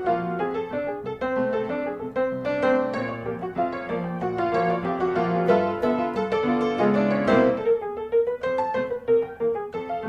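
Background piano music: a steady run of struck notes with chords underneath.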